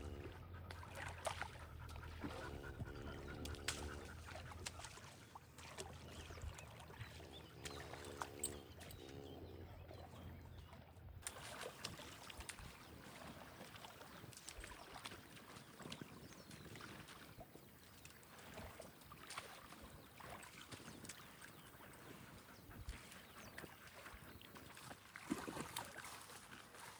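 Two short bouts of animal calls in the first ten seconds, then faint outdoor farmyard sound with scattered clicks and knocks.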